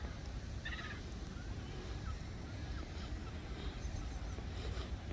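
Outdoor wind rumbling on the microphone, with a short bird call about a second in and a few faint chirps after it.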